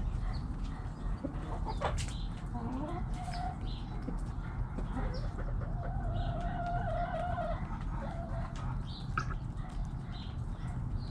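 Backyard chickens clucking and calling, with one long drawn-out call from about five and a half to seven and a half seconds in. A steady low rumble runs underneath.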